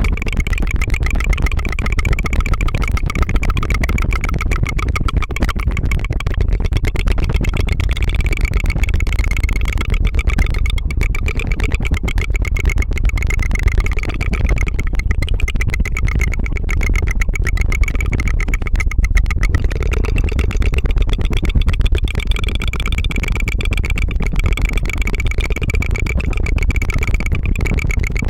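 Continuous rapid tongue fluttering (a tongue trill), a steady fast buzzing flutter that sounds like a running engine.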